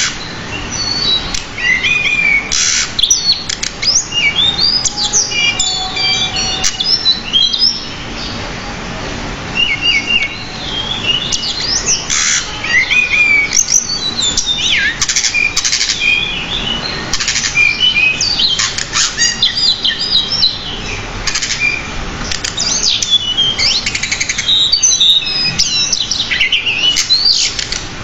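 Pied bushchat (decu) singing continuously: a fast, dense run of varied chirps, whistles and quick trills, packed with many different fill-in phrases, with only brief pauses between bursts.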